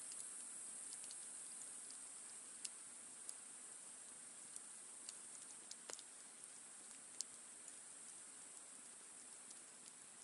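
Wood campfire crackling faintly: irregular sharp pops and ticks, a few louder than the rest, over a steady soft hiss.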